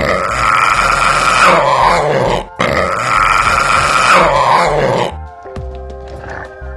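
An animal's call, given twice, each call about two and a half seconds long and falling in pitch at its end, over background music.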